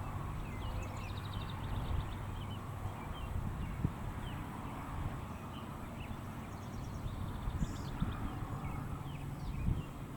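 Small birds chirping and trilling over a low wind rumble on the microphone, with a few soft knocks.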